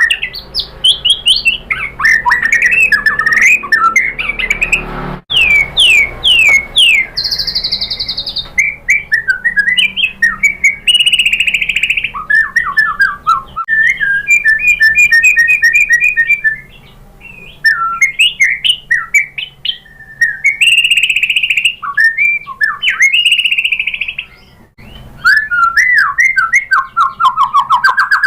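White-rumped shama (murai batu) singing a loud, varied song. It runs in phrases of quick sweeping whistles, rapid trills and harsh buzzy notes, broken by short pauses twice.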